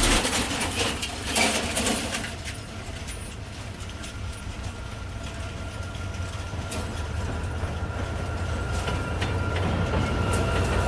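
Train on the rails at a station: a low rumble that grows steadily louder, with a thin, steady wheel squeal setting in about three seconds in.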